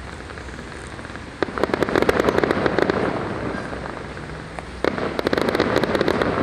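Fireworks going off: a bang about a second and a half in, followed by a dense crackling of small reports, then a second bang near the end with more crackling after it.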